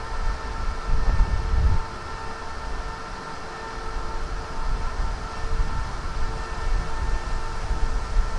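Electric multiple-unit passenger train approaching on the track: a low rumble that swells and fades, with a steady whine of several held tones.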